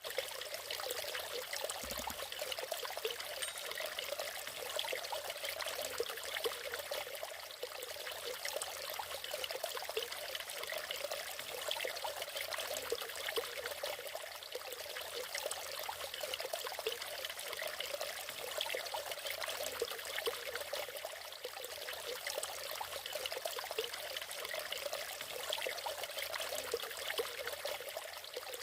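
Natural waterfall, water pouring and splashing in a steady, even rush, mostly hiss and splash with little deep rumble.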